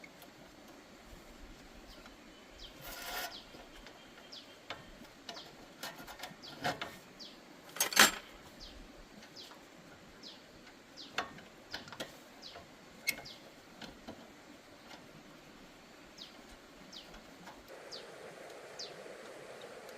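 Scattered clicks and knocks of hand work on a motorbike wheel and tyre, with a short scraping burst about three seconds in and a loud knock about eight seconds in. Birds chirp faintly throughout.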